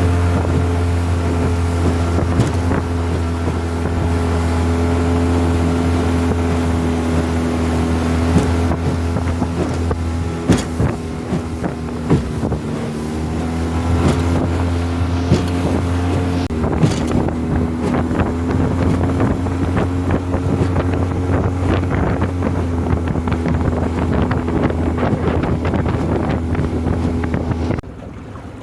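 Honda 20 hp four-stroke outboard on a 14-foot aluminum boat running steadily at cruising speed, with wind on the microphone and a few sharp knocks. The engine note dips briefly about twelve seconds in, and the engine sound drops away abruptly near the end.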